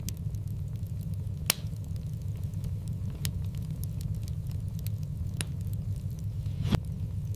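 Wood fire in a fireplace crackling over a steady low rumble, with faint ticks throughout and about five sharp pops, the loudest about a second and a half in and near the end.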